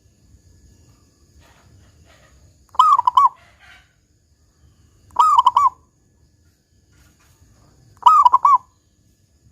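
Zebra dove (perkutut) cooing: three short phrases of quick rolling notes, about two and a half seconds apart.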